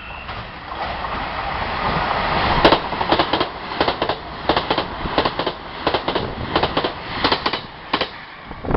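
A railway train passing at speed: a rushing sound builds, then about three seconds in comes a long run of sharp clacks as the wheels cross rail joints.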